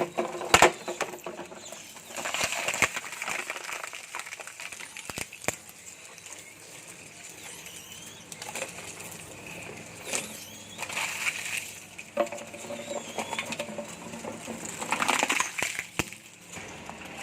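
Waste shredder chewing through plastic and other solid rubbish: irregular bursts of crunching and crackling, each a second or two long, with sharp clicks and snaps between them.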